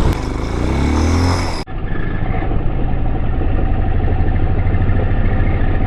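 Air-cooled 250 cc dirt bike engine (Vitacci Raven 250) accelerating, its pitch rising over the first second and a half, then running steadily. A brief dropout comes near two seconds in, after which the engine sound is duller.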